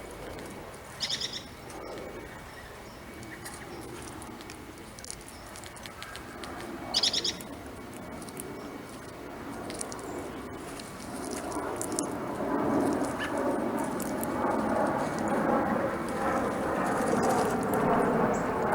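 Backyard birds chirping in short calls, once about a second in and again around seven seconds. In the second half a broad, steady rumble builds up and becomes the loudest sound.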